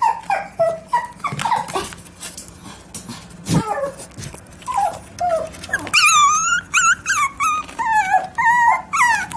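A dog whining: short high whimpers at first, then longer wavering whines from about six seconds in, with a single knock about three and a half seconds in.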